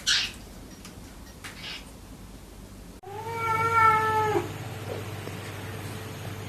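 A domestic cat gives one long meow about three seconds in, lasting over a second and dropping in pitch at the end. It is preceded by two short hiss-like noises.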